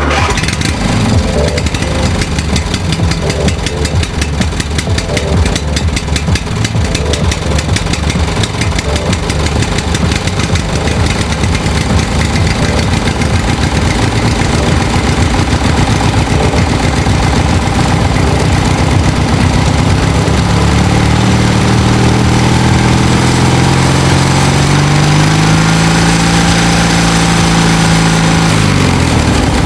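An engine running with a rapid, even beat of firing strokes. About two-thirds of the way in its pitch climbs and holds higher, as when revved or put under load, then falls away just before the end.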